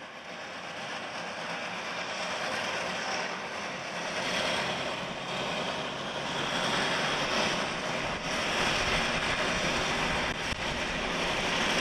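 A train approaching, a steady rushing noise that grows louder.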